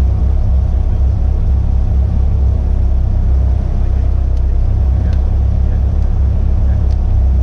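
Caterham Academy race car's engine idling, a steady low rumble picked up by the onboard camera on the stationary car.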